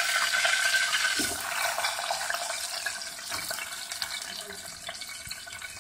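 Chopped onion and green chillies sizzling in hot oil in an aluminium pot, the hiss slowly dying down as the added vegetables cool the oil.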